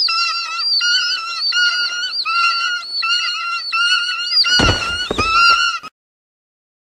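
A flock of birds shrieking over and over in quick, high, rising-and-falling calls, with a couple of heavy thumps about four and a half seconds in. The sound cuts off abruptly near six seconds.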